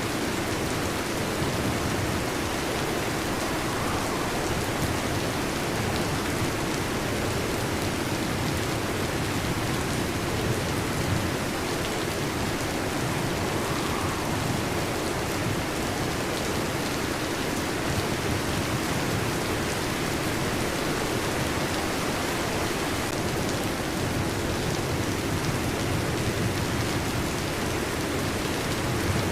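Steady rain, an even hiss with no distinct thunderclap.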